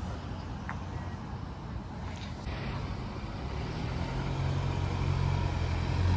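BMW X1 SUV's engine running as the car rolls slowly up and passes close by. Its low rumble grows louder from about halfway in.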